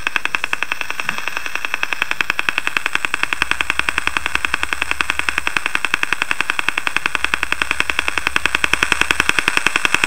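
FM radio station on 106.7 broadcasting a fast, steady ticking, about ten ticks a second, heard through a radio. The uploader likens it to a station stunting ahead of a format change; it sounds really annoying.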